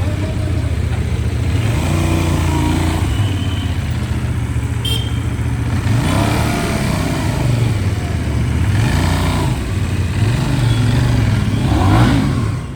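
Benelli 752S motorcycle's parallel-twin engine running under way, its pitch rising and falling several times as the rider opens and closes the throttle.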